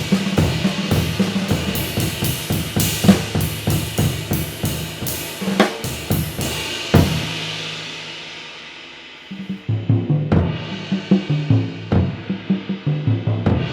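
Drum kit played with 24-inch handmade ride cymbals: busy drumming under a bright, washy cymbal ring. About seven seconds in, a loud hit is left to ring and fade away for a couple of seconds. Then the drums come back in, with cymbals again near the end.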